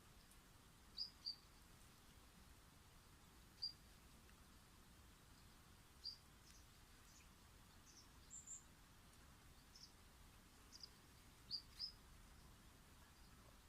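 Short, high-pitched bird chirps, single and in quick pairs, at irregular intervals over a faint outdoor hiss.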